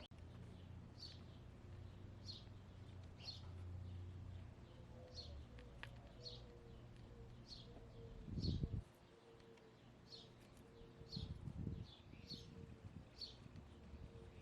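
A wild songbird repeats a short, high, falling chirp about once a second, faint against a low background rumble. Two brief louder low rumbles come about eight and eleven seconds in.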